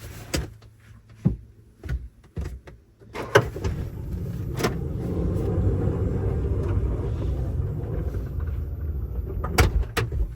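A car: a few knocks, then a steady low motor rumble for about seven seconds that stops suddenly after two sharp clicks.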